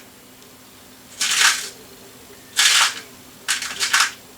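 Small metal computer screws rattling in three short bursts as they are rummaged through by hand.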